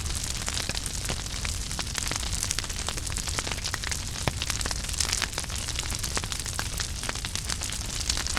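Wood fire burning in a fireplace, with a steady hiss and many small irregular crackles and pops.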